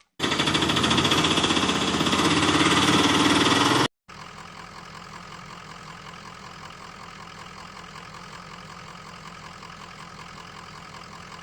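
Tractor engine running. The louder sound cuts off abruptly about four seconds in and is followed by a quieter, steady engine drone.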